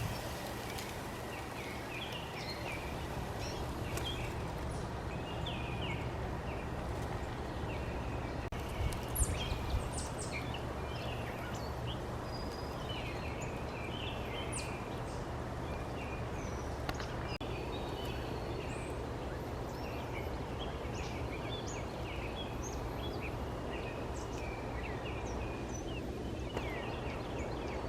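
Several songbirds chirping and singing, with short whistled notes and chirps all through, over a steady low background hum.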